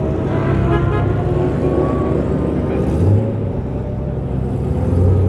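Supercar engines running at low speed, a deep steady rumble, with a faint tone that rises slowly as the hypercars move onto the track.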